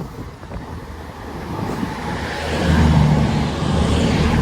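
A train approaching and growing louder from about two seconds in, with a steady low hum under a rushing hiss.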